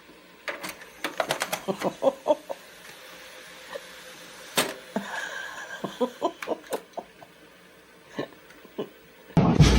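A rapid, irregular series of smacking kisses planted on a cat. Near the end, loud music cuts in.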